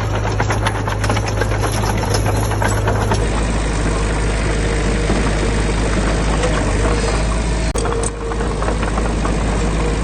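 Diesel engine of heavy earthmoving machinery running steadily, with rapid metallic rattling over the first three seconds.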